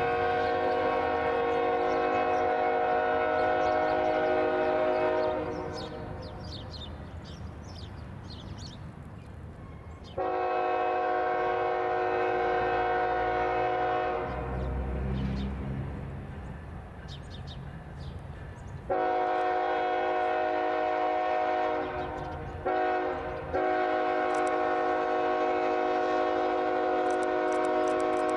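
BNSF freight locomotive's air horn sounding a chord in long blasts, then a short blast and a final long one: the long-long-short-long grade-crossing warning. Between the blasts the train rumbles along the track.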